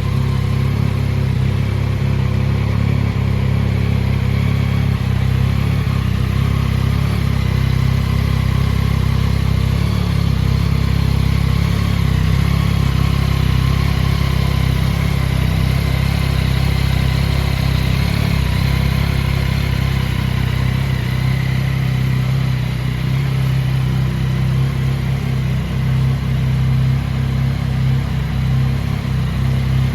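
2022 Yamaha XSR900's 889 cc inline three-cylinder engine idling steadily.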